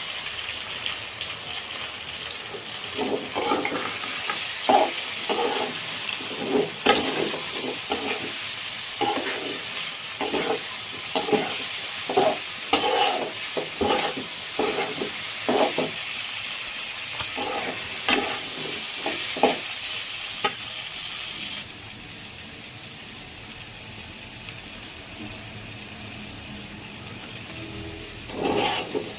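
Food sizzling in hot oil in a pan while a spatula stirs and scrapes it in repeated short strokes. Partway through the stirring stops, the sizzle turns quieter, and the scraping starts again near the end.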